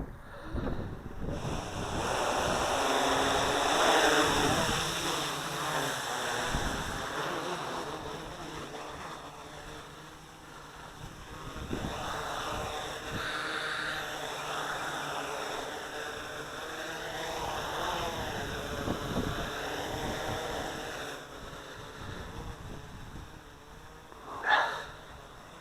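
SK450 quadcopter's brushless motors and propellers whining in flight, their pitch rising and falling as the throttle and wind load change, with wind buffeting the microphone. A brief, sharp surge in motor pitch comes near the end and is the loudest moment.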